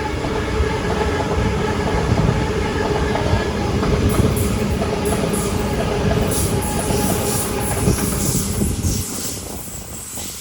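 Sydney Trains electric train running along the platform: a loud rumble with the clickety-clack of wheels on the rails and a steady whine on top. The noise dies away about nine seconds in.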